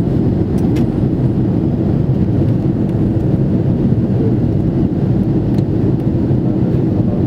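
Steady, loud jet-airliner cabin rumble inside an Airbus A330-300, from the engines and the airflow over the fuselage, with a couple of faint clicks from the cabin early on.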